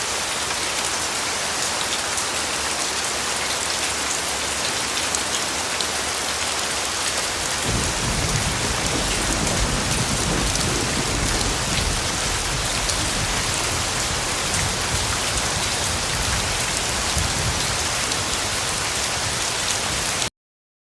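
Steady rain falling, an even hiss. About eight seconds in, a low rolling rumble of thunder joins it and carries on under the rain. Near the end everything cuts off suddenly.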